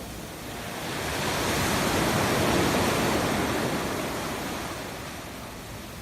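Rough sea: a wave surging in and breaking. The rush of surf swells over about two seconds, then fades away.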